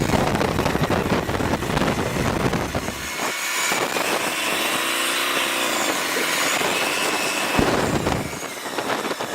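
A car engine running with a heavy, rough low rumble, then revving up and down in pitch through the middle seconds.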